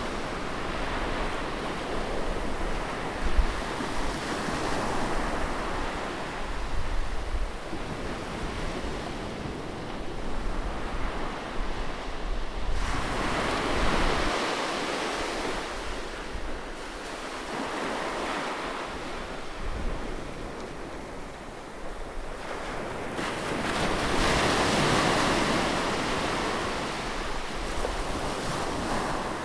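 Sea waves breaking on a beach, the surf swelling and washing in several times, with wind rumbling on the microphone.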